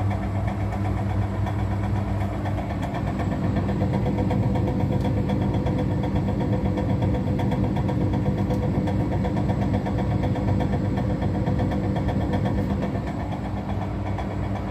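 Washing machine drum turning with a steady hum and a fast, even rattle and knocking from inside the drum, which the owner takes for something bent in the drum.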